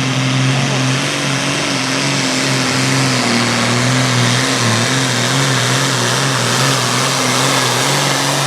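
Classic super stock pulling tractor's turbocharged diesel engine at full throttle under heavy load, dragging the pulling sled. A loud, steady engine note with a slight wobble in pitch.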